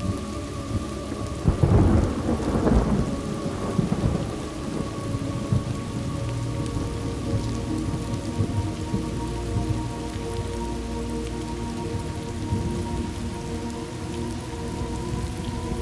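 Steady rain with a thunderclap about a second and a half in that rumbles away over the next few seconds.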